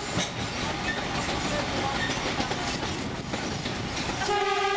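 St. Kitts Scenic Railway narrow-gauge train rolling along, heard from an open upper-deck car: a steady rumble and rattle of the wheels on the track. Near the end the train's horn starts a steady note.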